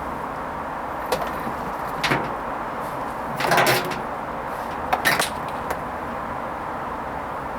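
Hoover Vision HVP16 washing machine running its Silks 30 gentle wash. A steady hum runs under a few short swishes and knocks from the drum and its wet load, about once a second or two; the loudest comes halfway through.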